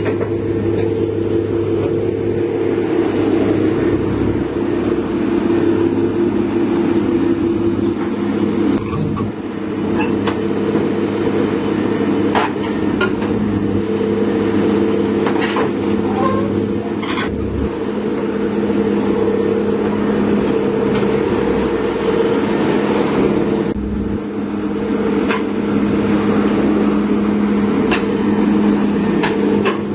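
Heavy diesel engine running steadily at an even speed, with a few sharp clanks at scattered moments.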